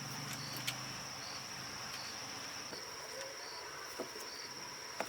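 Insects trilling steadily, with a short high chirp repeating about once a second. A few sharp clicks or taps stand out, about a second in, near four seconds and near the end.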